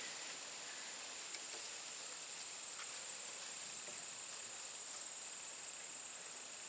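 Insects, crickets or similar, trilling in one steady high-pitched tone, with a few faint ticks.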